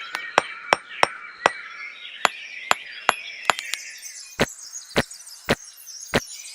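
A series of about fifteen sharp, light taps or knocks, roughly two a second and unevenly spaced, over faint high chirping in the first half.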